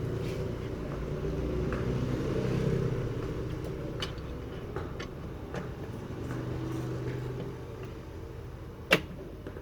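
Repaired ceiling fan motor running on test with a low, steady hum and no grinding, slowly fading. A few light clicks, and one sharp click about nine seconds in.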